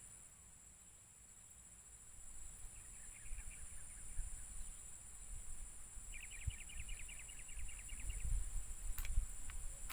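Insects in the swamp keep up a steady, high-pitched drone. Twice a rapid pulsed trill sounds over it, the second one longer at about ten pulses a second. Low handling thumps and a sharp click come near the end.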